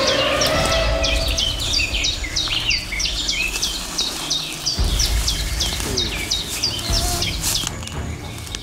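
A small bird calling in the woods: a quick run of short, high, falling chirps, about three or four a second, that stops about seven seconds in. Under it runs a low rumble that drops out briefly about halfway through.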